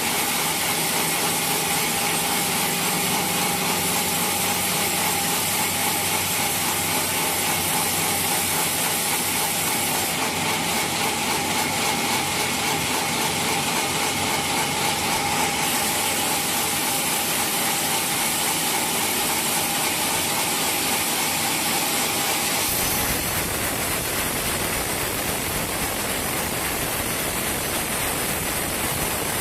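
Sawmill saw running and cutting through a log, a steady loud hissing noise with a high whine. About 23 seconds in the whine stops and the sound turns abruptly into a fuller, lower rushing noise.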